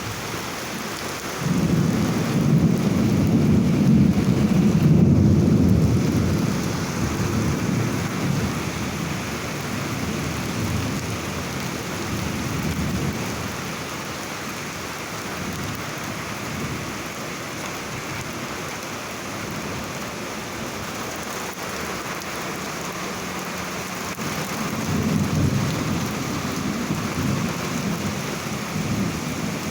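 Steady rain falling in a thunderstorm, with a long rumble of thunder that starts suddenly about a second and a half in and fades over several seconds, and a second rumble near the end.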